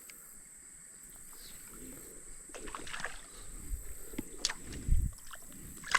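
Small fishing boat on a creek: scattered knocks and clicks against the hull, the loudest a low thump about five seconds in, as a hooked rock bass is brought in and landed.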